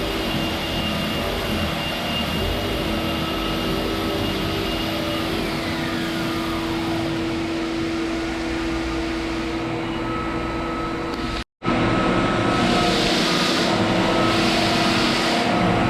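Handheld power sander running steadily against hardwood flooring with 80-grit paper, a constant hum under the grinding noise. It cuts out for a split second about eleven seconds in, then carries on a little louder.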